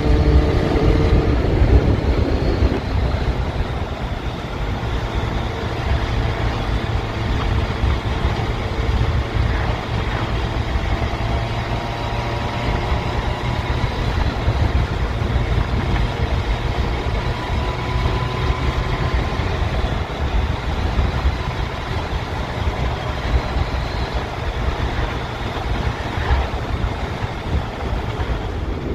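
Yamaha FZS1000's inline-four engine running through a ride, heard over a heavy low rumble. The engine note eases off about a second and a half in, then holds steady and even.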